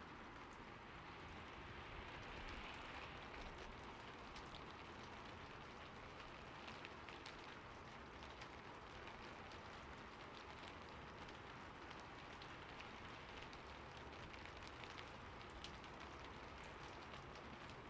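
Steady rain falling on a roof: a faint, even hiss with many single drops ticking through it.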